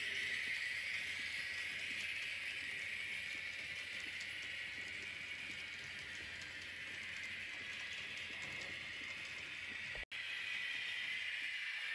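A train running on rails: a steady hiss of wheel and track noise, cut off for an instant about ten seconds in.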